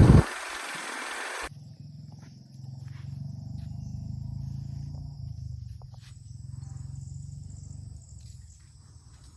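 Crickets and other forest insects trilling steadily in high, continuous tones over a low steady hum. Loud motorcycle engine noise cuts off abruptly at the very start.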